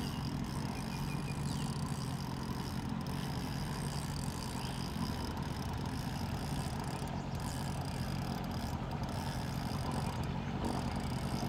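A steady low motor hum with outdoor background noise, unchanging throughout.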